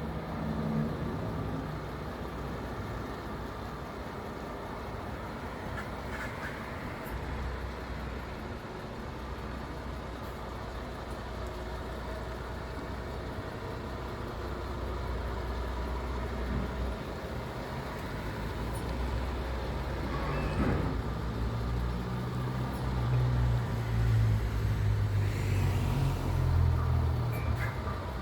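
Heavy truck's diesel engine running steadily, growing louder and deeper in the last several seconds.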